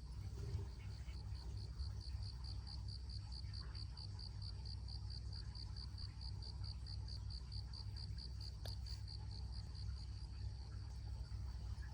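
A cricket chirping in a steady, high-pitched pulsed song of about four to five chirps a second, starting about a second in and stopping near the end, over a low steady rumble.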